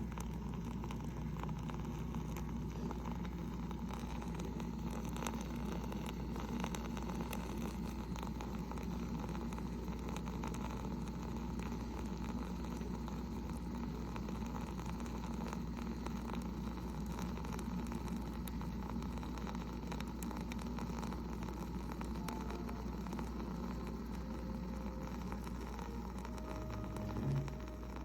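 Instant Solo single-serve coffee maker running, a steady low hum with hiss, and a short, louder rising sound near the end.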